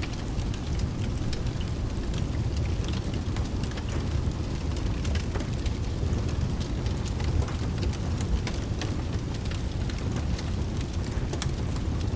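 Steady rain mixed with a crackling wood fire: a dense low rumble runs underneath, and many sharp, irregular crackles and pops are scattered over it.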